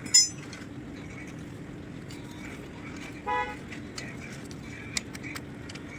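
A short vehicle horn toot about three seconds in, over a steady hum with scattered light clicks. A brief, sharp, high-pitched ring right at the start is the loudest sound.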